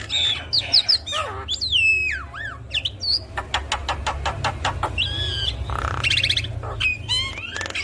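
Javan myna singing a varied, busy song: whistles that glide down, rapid rattling clicks, short trills and harsh squawky notes following one another without a break.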